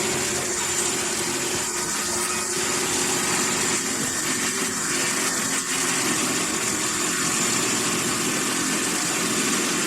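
Car engine idling steadily just after being jump-started from a portable jump starter, with a thin, steady, high-pitched whine over it.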